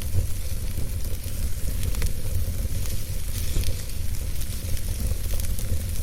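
Wood fire burning in a fireplace: a steady crackle and hiss over a low rumble, with an occasional sharp pop of the burning logs.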